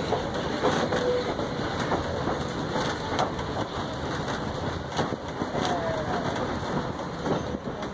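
Heritage train riding along the track, heard from a passenger car: a steady rumble and clatter of wheels on rail, with a brief faint squeal about five to six seconds in.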